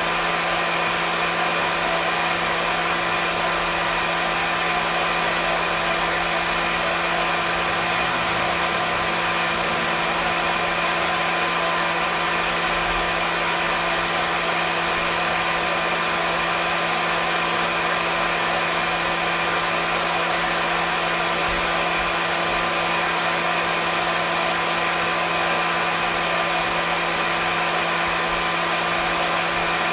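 Hair dryer running steadily: an even, unchanging rushing hiss of blown air with a constant motor hum beneath it.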